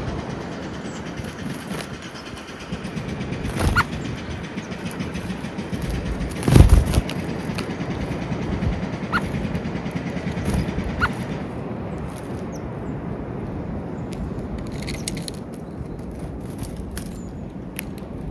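Steady outdoor background rumble, with a few sharp knocks, the loudest about six and a half seconds in, and a few brief faint high notes.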